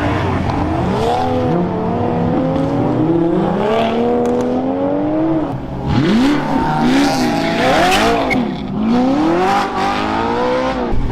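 Several performance cars' engines revving and accelerating hard one after another, the pitch climbing and dropping repeatedly as they rev and change gear, with more than one engine heard at once.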